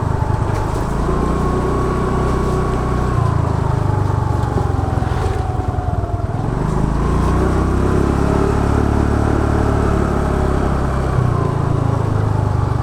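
Motor scooter's small engine running under way, its whine slowly rising and falling in pitch as the speed changes, over a steady low rumble.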